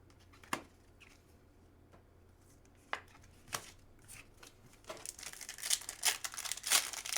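A few light taps of cards being handled, then from about five seconds in the crinkling and tearing of a trading-card pack wrapper being ripped open.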